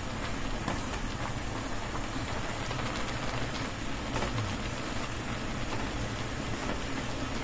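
Noodles and vegetables sizzling steadily in a nonstick wok as the sauce cooks down, with soft scrapes and taps from a wooden spatula tossing them.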